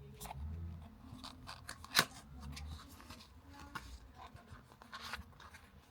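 Cardboard packaging of a small camera-accessory box being opened and handled: light rustling and scattered small clicks, with one sharp click about two seconds in.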